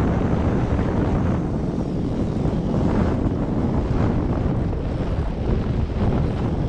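Strong wind buffeting the microphone on a boat at sea: a steady, low, rumbling rush of noise.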